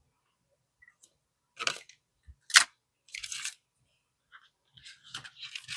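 Cash bills and envelopes being handled: short rustles of paper and plastic, with one sharp click about two and a half seconds in, then steadier rustling near the end.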